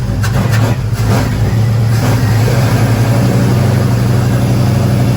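1961 Chevy Apache pickup's engine running steadily, slightly uneven in the first second, just after a first start. It is living on starting fluid with no gas getting through, which the owner blames on a carburetor that is about shot.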